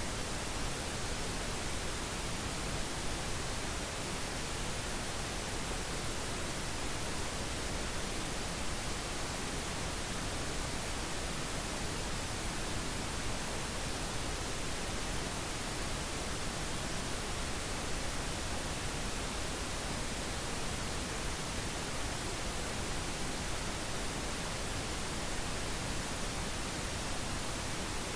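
Steady, unchanging pink noise: an even hiss that spreads across the whole range, without tones, clicks or changes.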